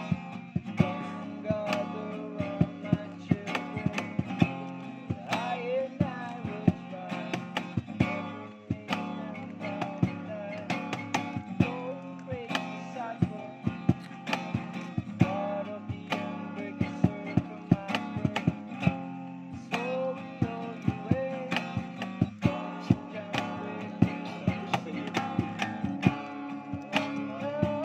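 Guitar music: chords strummed in a steady rhythm, with sharp strum strokes over sustained ringing notes.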